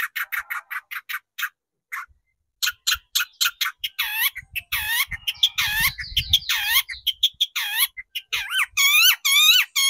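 Long-tailed shrike (cendet) singing: a rapid run of short harsh notes, a brief pause, then harsh chattering that turns into longer calls and, near the end, repeated dipping, swooping notes about two or three a second.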